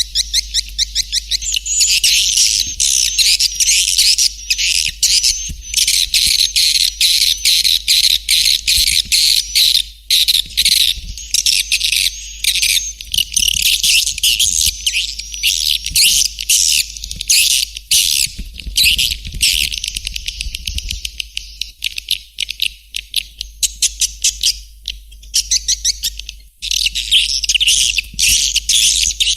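Swiftlet lure call: a dense, continuous stream of rapid high chirps and twitters from many swiftlets, with a brief break about 26 seconds in. It is the kind of call track played in swiftlet farming to draw the birds into a nesting house.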